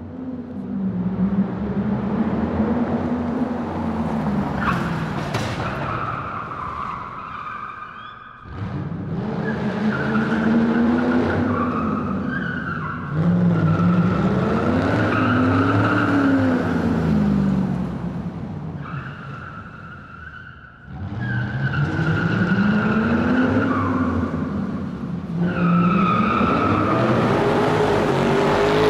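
Dodge Challenger V8 engine revving up and falling back over and over, with a high squeal of tyres over the revs. The sound eases off sharply twice before building again.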